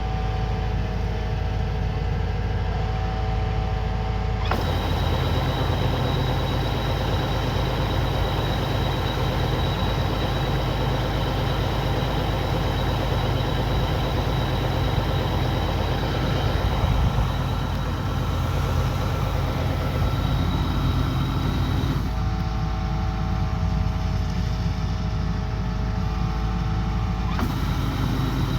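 Kubota combine harvester running steadily: a continuous heavy diesel drone mixed with mechanical noise from the machine. Its tone changes abruptly a few seconds in and twice again near the end, while the loudness stays the same.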